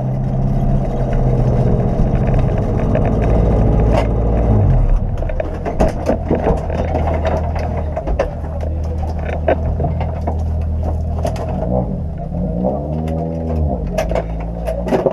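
Peugeot 106 F2000 rally car's engine idling steadily, heard from inside the stripped cabin, with one brief blip of revs near the end. Scattered clicks and knocks from inside the cabin.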